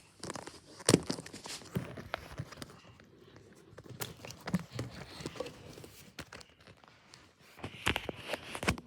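Irregular knocks, thumps and rustling, with louder clusters about a second in and near the end.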